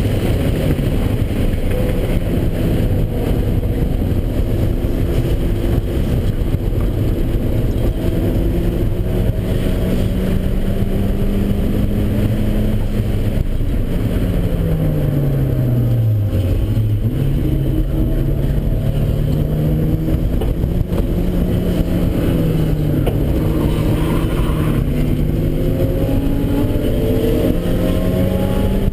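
Turbocharged Mazda Miata four-cylinder engine heard from inside the cabin at track speed, with heavy wind and road noise. The engine note holds steady on the straight, falls sharply about halfway as the car slows for a corner, then climbs again in several steps through the gears.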